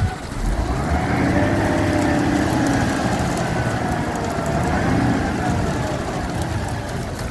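Heavy vehicle engine running steadily, its pitch slowly wavering up and down as the revs change.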